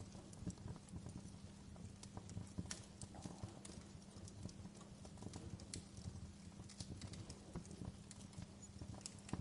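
Wood fire in a fireplace crackling, with irregular sharp pops and snaps from the burning logs over a low, steady rumble of the flames.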